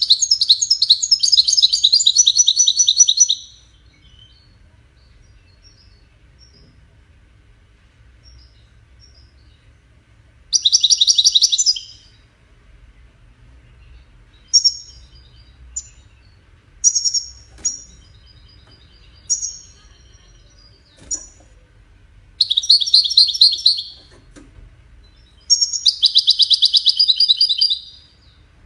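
European goldfinch singing Wedani-style song: dense, rapid trilled phrases of a second or three, with short single call notes between them. This is tutor song played for goldfinch chicks to learn.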